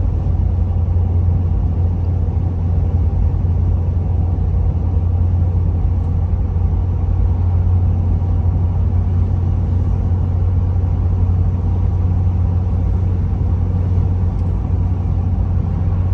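Steady in-cab drone of a 6.7 Powerstroke V8 turbo-diesel cruising at about 60 mph through a 4-inch exhaust with no muffler or resonator, a deep low hum mixed with all-terrain tire hum and wind noise.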